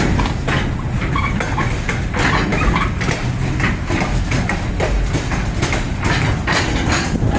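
Moving passenger train heard from the gap between two cars: a steady rumble of wheels on the rails with frequent clanks and rattles.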